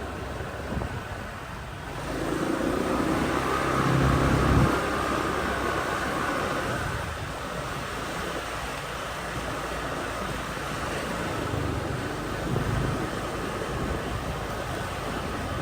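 Street traffic heard from a moving motorbike: a steady bed of engine and road noise, with a louder engine swelling about two seconds in and dropping away about five seconds in.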